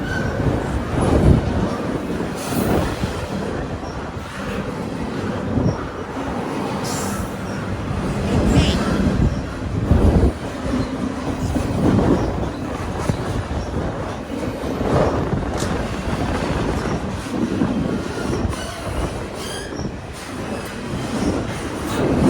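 Freight train cars rolling past: steady rumble of wheels on rail with uneven clacks over rail joints and occasional wheel squeal.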